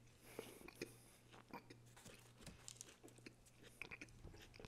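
Faint, close-miked chewing of a mouthful of a Subway sub sandwich with raw vegetables: soft, irregular wet clicks and crackles of jaw and bread.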